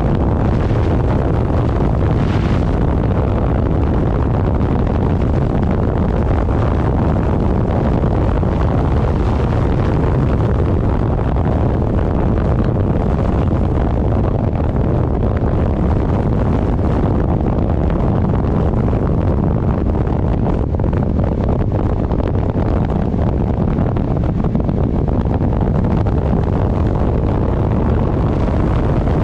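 Steady, loud wind buffeting on the microphone of a moving vehicle, with road and engine noise underneath and no change in pace.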